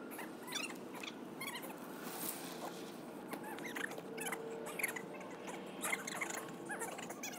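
Small birds chirping and twittering in short, repeated calls, over a faint steady hum.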